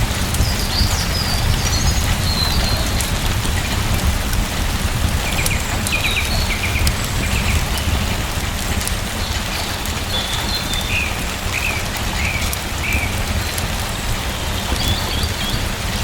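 Steady rain falling, with a low rumble underneath and short high chirps scattered through it, most of them in the middle.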